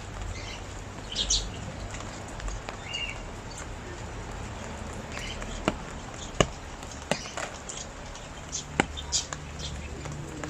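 Steady rain falling, with several sharp drips striking a hard surface and a few short bird chirps.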